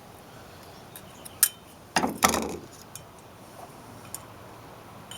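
A few light metal clicks and scrapes of a hand tool working inside a brake caliper's bore to hook out the piston seal, the loudest about two seconds in.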